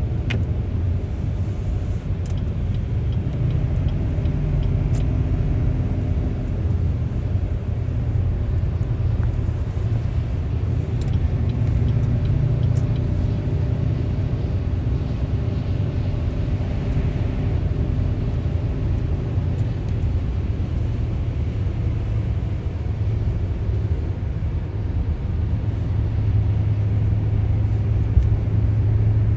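A car being driven: a steady low engine and road rumble with an even hum that does not change much.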